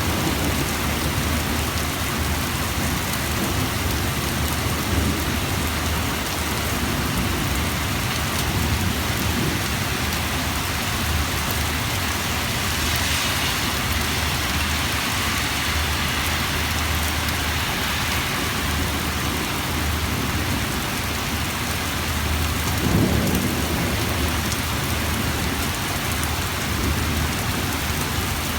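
Heavy rain pouring steadily, with a rumble of thunder about twenty-three seconds in.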